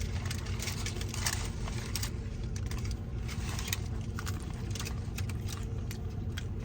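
Scattered crackles and crisp clicks from handling and biting into a crunchy hard-shell taco, over a steady low hum inside the car.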